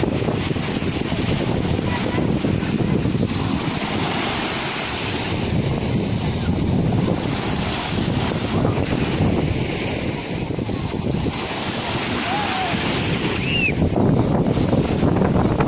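Sea waves washing in, a steady rush with wind buffeting the microphone. Two brief chirps near the end.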